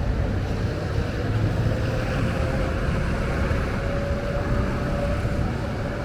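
Wind buffeting the microphone: a dense, fluctuating low rumble, with a faint steady tone in the background for the latter part.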